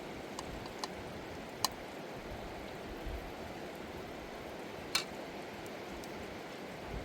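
A river rushing steadily, with a few short sharp clicks or taps, the loudest about a second and a half in and again about five seconds in.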